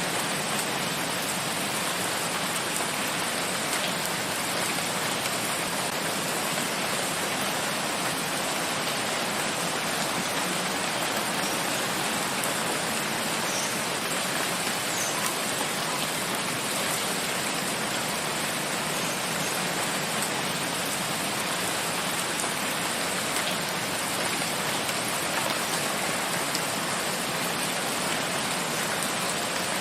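Steady, heavy rain falling in a forest: a dense, even hiss of rain without pause.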